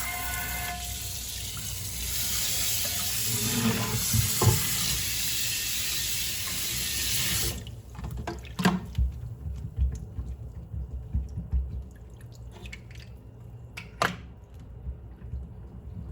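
Kitchen tap running water into a sink, with a few knocks of dishes under it; the tap is shut off about halfway through. Scattered clinks and knocks of dishes being handled follow.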